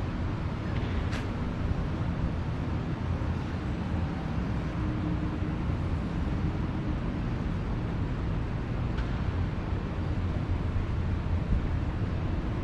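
Steady low rumble of outdoor street ambience, with a sharp click about a second in and a fainter one later.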